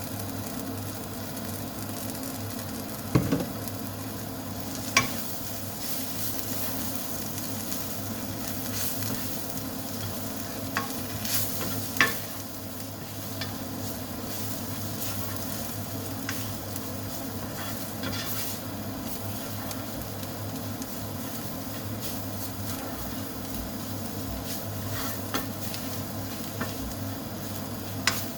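Spiced food frying in olive oil in a pan, sizzling steadily, as it is stirred with a utensil that knocks sharply against the pan a few times.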